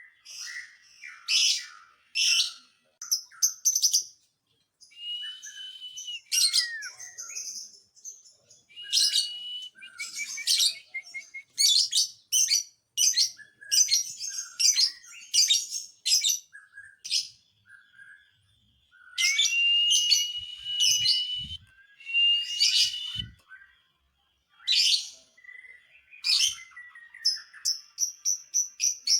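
Lovebird chattering in long runs of sharp, high-pitched chirps and rapid trills, broken by short pauses, with a few longer held whistled notes near the middle.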